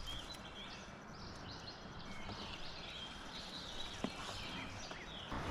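Birds chirping in short, scattered calls over a steady low background hiss, with one sharp click about four seconds in.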